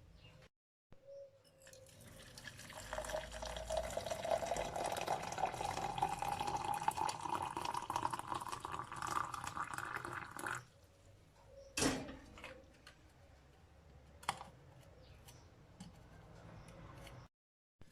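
Water running from a tap into a container for about eight seconds, its pitch rising steadily as the container fills. The flow stops abruptly, followed about a second later by a sharp knock and a lighter click near the end.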